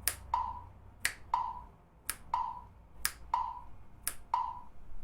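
A metronome at 60 BPM clicks once a second with a short mid-pitched tone. A finger snap lands on the fourth sixteenth of each beat, just before the next click.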